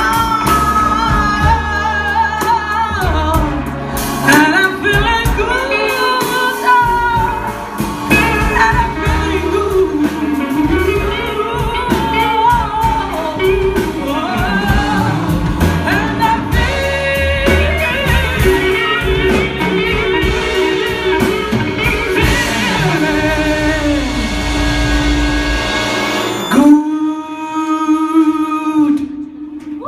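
A woman singing with instrumental accompaniment. Near the end the bass and band drop away and she holds one long final note.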